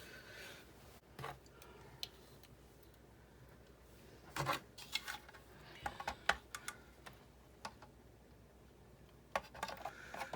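Scattered light clicks and knocks of parts of a die-cutting machine being handled and fitted together by hand during reassembly, in small clusters about four and a half seconds in and again near the end.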